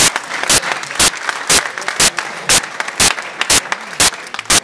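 Audience clapping in unison at a steady beat of about two loud claps a second, over a general crowd hubbub.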